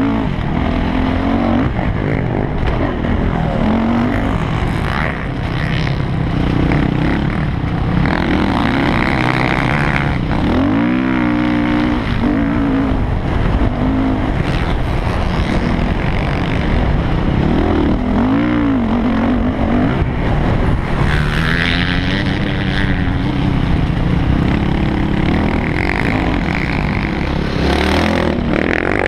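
Yamaha YZ450F motocross bike's 450 cc four-stroke single-cylinder engine under hard riding, its pitch rising and falling continually with throttle and gear changes, with sharp revs up and back down about ten seconds in and again near the middle.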